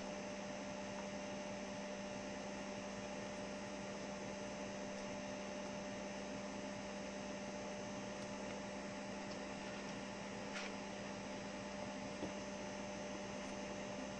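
Steady electrical hum over a faint hiss, with a couple of faint ticks near the end.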